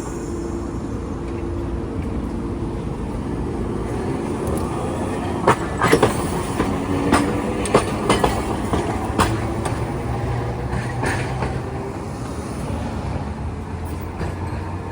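Hiroshima Electric Railway streetcar running on street track, its wheels clacking over rail joints and points in a string of sharp knocks about five to ten seconds in, over a steady low rumble.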